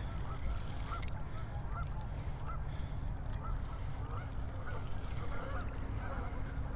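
A flock of geese honking, many short calls overlapping and repeating throughout, over a steady low rumble.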